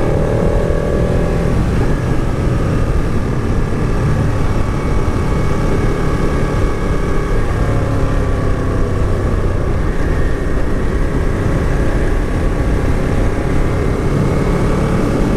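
Motorcycle engine running steadily under light throttle, its pitch drifting gently up and down, mixed with wind and road noise.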